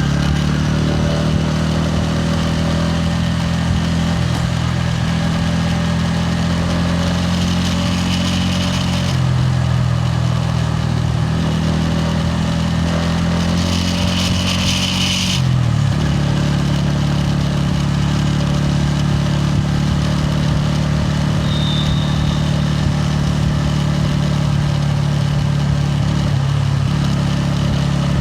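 Bajaj Pulsar N160's single-cylinder engine and exhaust running under a rider. The pitch shifts with the throttle: it drops about a third of the way in and climbs again just past the middle.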